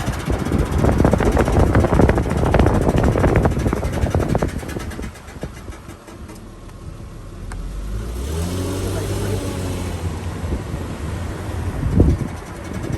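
2001 Lexus GS300 making a harsh, rattling grinding noise for the first four seconds or so, of unknown origin. It then quietens, the engine revs up and back down about eight seconds in, and a single knock sounds near the end.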